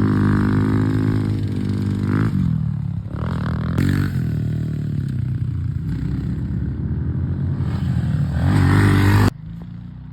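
Pit bike engine revving up and dropping back several times as it is ridden, with a final rise in revs that cuts off suddenly about nine seconds in.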